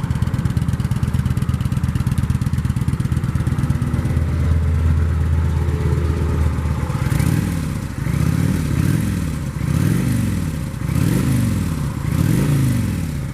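2008 Kawasaki Vulcan 900 Custom's V-twin running through its stock exhaust: it idles steadily, then from about seven seconds in it is revved up and let fall back about five times in quick blips.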